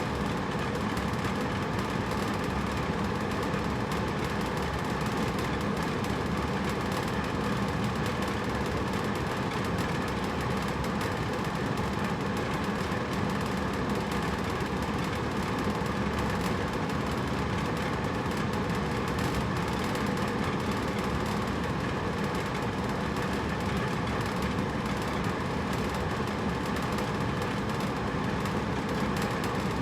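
Hotel room air conditioner running with a steady whooshing rush of air and a low hum, unchanging throughout.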